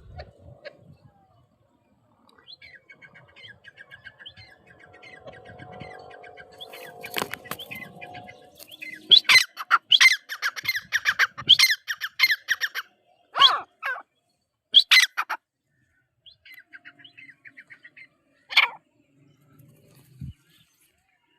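A teetar (francolin) calling: first a fast, rattling chatter, then about halfway through a run of loud, shrill, repeated calls. A softer chatter and one more call follow near the end.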